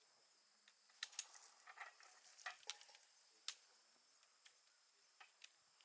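Faint, scattered clicks and light taps, most of them bunched between about one and three and a half seconds in, over a quiet background with a faint steady high tone.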